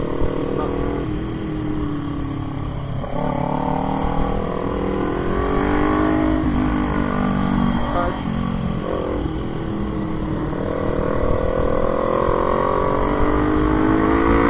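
Motorcycle engine pulling through the gears while riding; its pitch climbs and then drops several times as it shifts up.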